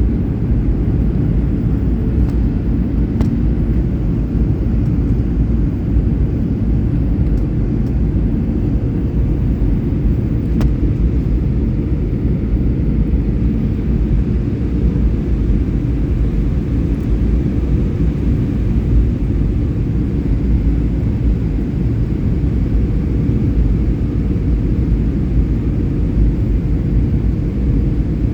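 Airliner cabin noise: a steady low rumble of the engines and airflow, with a faint steady hum above it.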